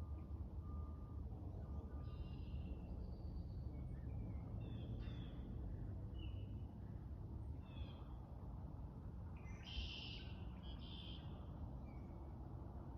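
Birds calling outdoors in short, high chirps scattered through the clip, with a busier cluster near the end, over a steady low background rumble.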